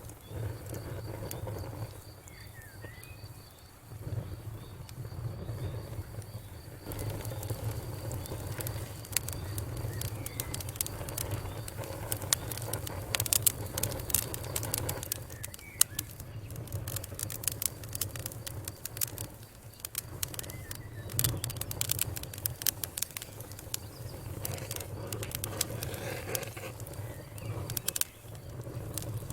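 Wood fire crackling, with irregular snaps and pops over a low steady rumble of the flames.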